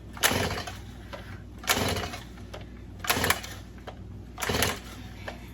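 Chainsaw recoil starter pulled four times, about one and a half seconds apart: each pull a short rasp of the rope as the engine turns over without starting.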